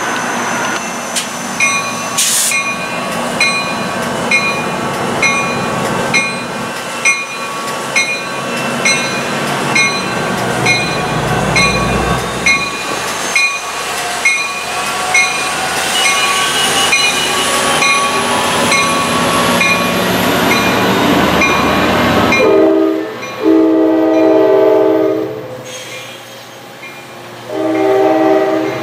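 A Coaster commuter train, led by an F40PH-2C diesel locomotive, runs past with a bell ringing steadily about twice a second. Near the end the bell stops and a train horn sounds, first a long blast of about three seconds, then a shorter one.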